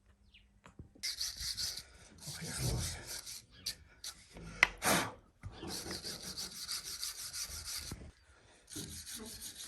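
Repeated rasping, scraping strokes in bursts of one to two seconds, with a single sharp knock a little before the middle.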